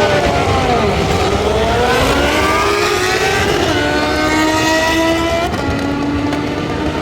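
Motorcycle engine under load: its pitch dips in the first second, climbs steadily for about two and a half seconds, then drops and holds at a steady lower pitch.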